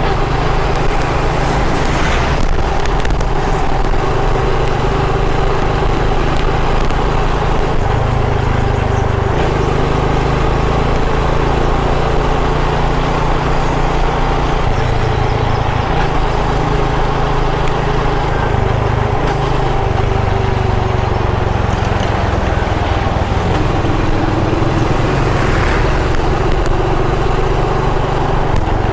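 Motorcycle engine running at road speed while riding, with wind noise on the microphone. The sound is steady throughout, and the engine note rises and falls a little.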